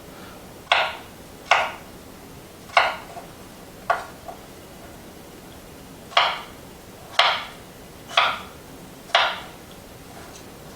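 Kitchen knife chopping radishes into half moons on a cutting board: eight sharp knocks, four at about one a second, a short pause, then four more.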